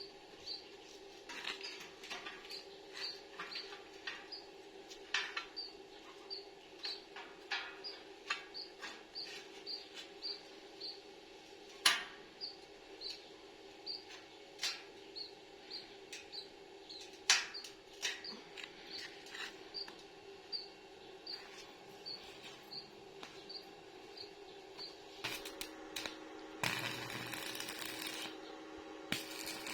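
Scattered sharp knocks and clicks of hand work on a metal and wire cage frame, over a steady low hum, with a faint high chirp repeating about every 0.7 s. Near the end a loud, even crackling hiss starts and runs for a few seconds.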